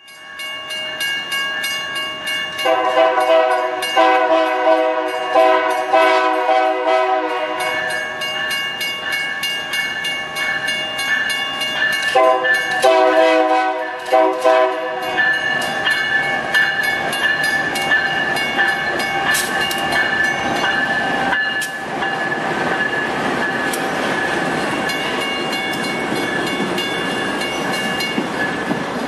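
A GE AC44i diesel-electric locomotive sounds its multi-chime air horn in a few blasts, then once more. The train then rumbles past close by, with its wheels clicking over the rail joints.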